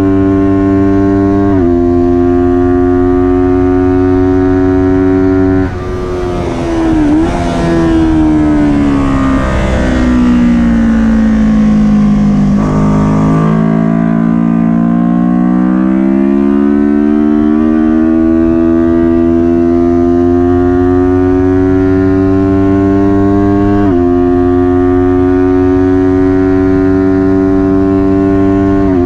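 Kawasaki Ninja 400's parallel-twin engine at race revs, held high with quick gear-change steps in pitch. About six seconds in the throttle closes and the revs fall away for several seconds, then the engine climbs steadily under acceleration, with another shift a few seconds before the end.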